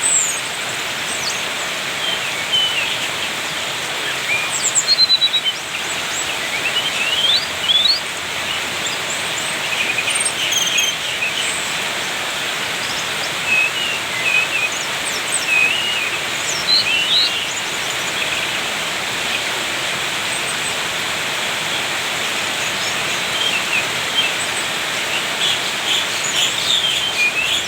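Small songbird singing busily in short chirps, quick squeaky glides and rattling chatter. The calls come in scattered clusters over a steady background hiss.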